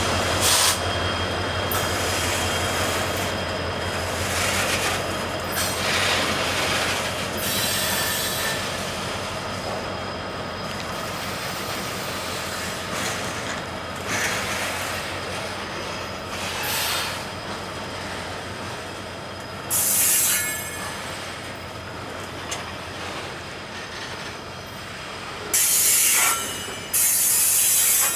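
Freight train rolling past, its cars clattering along the rails, with repeated short bursts of high wheel squeal, the loudest near the end. A low steady hum fades out over the first ten seconds or so.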